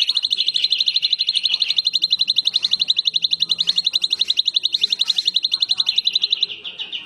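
A cucak cungkok singing one long, rapid, evenly pulsed high trill. It weakens after about six and a half seconds and trails off.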